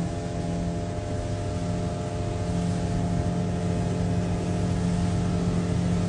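Single Suzuki DF100 four-stroke outboard driving a boat under way, its engine note holding steady over an even rush of noise.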